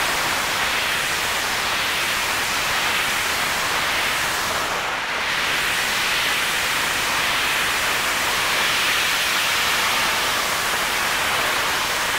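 Passenger coaches of a steam train rolling past close by under full braking: a loud, steady rushing hiss with no clear squeal.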